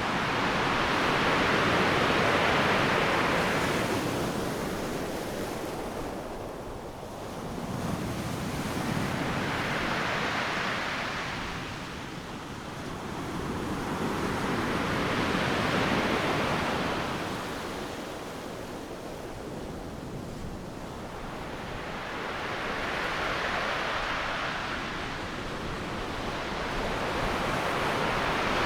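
Ocean surf: waves breaking on a beach one after another, each a rush of noise that swells and fades, about every six to eight seconds.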